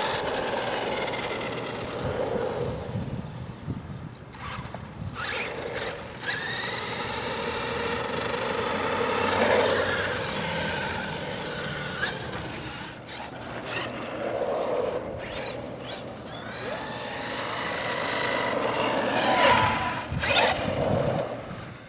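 Brushless electric motor of a 1/10-scale RC truck whining up and down in pitch as it is repeatedly accelerated and eased off, with the tyres spinning and scrabbling on loose, dry dirt.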